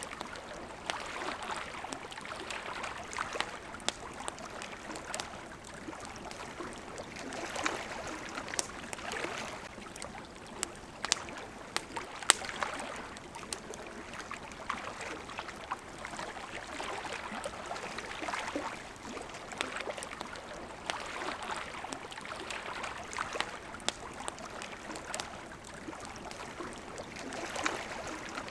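Water lapping and washing against the shore in gentle swells every few seconds, with a campfire crackling over it in frequent sharp pops and snaps.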